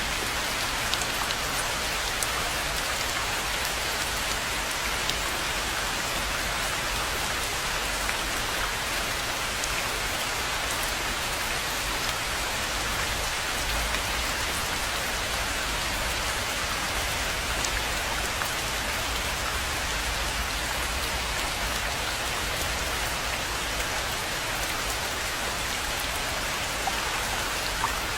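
Steady, even rain falling on a pond, with scattered individual drops ticking through the hiss.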